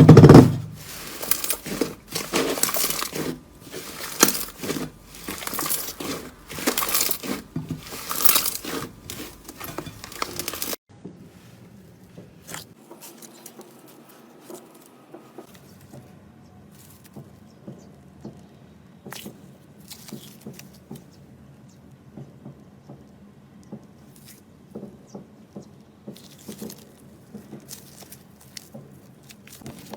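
Slime being squeezed and stretched by hand, with dense crackly pops and squelches. After about eleven seconds it cuts abruptly to a much quieter clip with only sparse soft clicks.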